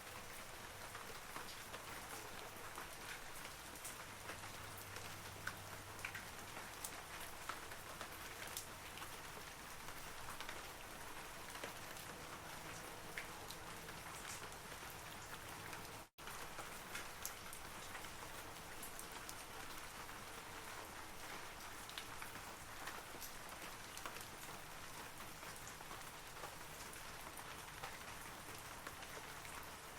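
Steady rain falling on forest trees, a soft even hiss dotted with many small droplet ticks. The sound cuts out completely for a split second about halfway through.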